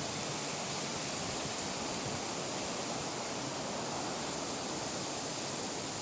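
Steady wind noise: a breeze blowing across the microphone.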